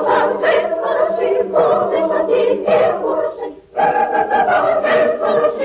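A group of voices singing a Ukrainian folk song a cappella in long held phrases, with a short break for breath about three and a half seconds in.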